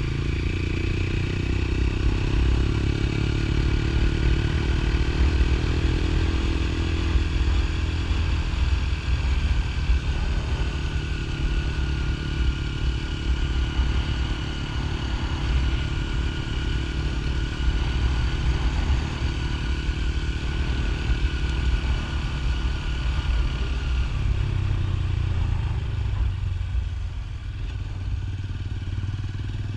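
Motorcycle running as it is ridden, a steady low engine rumble mixed with wind noise, easing off slightly near the end.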